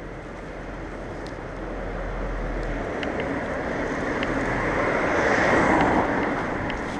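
A road vehicle passing close by on a city street, its rushing noise swelling to a peak about five to six seconds in and then falling away, over the general traffic and wind noise of riding a bicycle.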